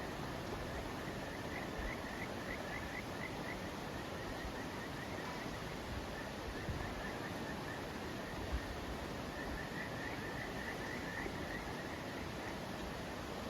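Steady outdoor hiss of open-air ambience, with two short runs of quick, rising chirps from a small animal, about seven a second, once a couple of seconds in and again near the end.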